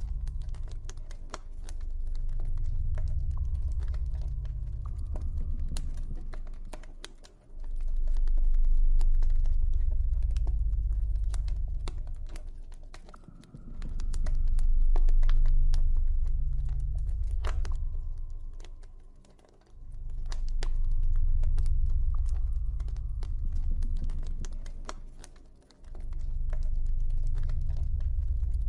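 Campfire crackling, with many sharp pops and snaps, over a deep low drone that swells and fades about every six seconds, with faint held tones above it.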